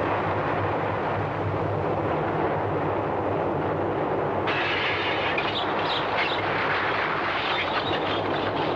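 Earthquake sound effect: a loud, steady rumble, with crashing and clattering joining in about halfway through.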